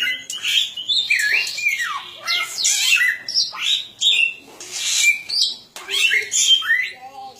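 Cililin bird singing vigorously in a continuous, varied stream of loud whistled notes, rising and falling sweeps and harsh chattering phrases, easing off near the end.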